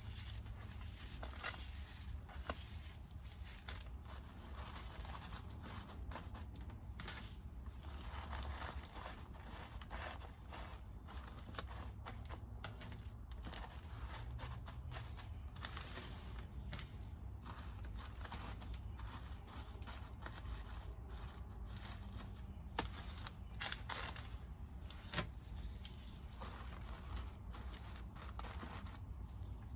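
Decorative basket shred being handled and stuffed into an Easter basket: irregular crinkling and crackling rustles, with a few sharper crackles scattered through, over a steady low hum.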